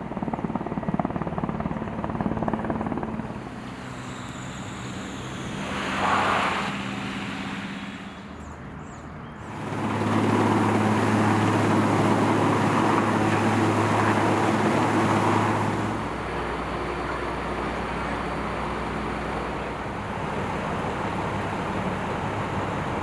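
Engine noise from vehicles and a rescue helicopter, a steady low hum with a rushing haze, changing abruptly several times as the shots cut. It is loudest in the middle stretch.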